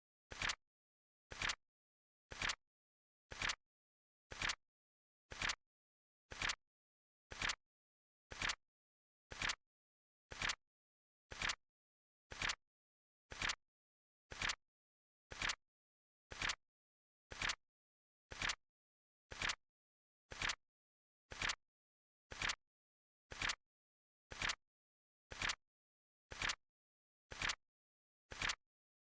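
Flip clock timer's tick sound effect: one short, sharp click every second, perfectly even, with silence in between.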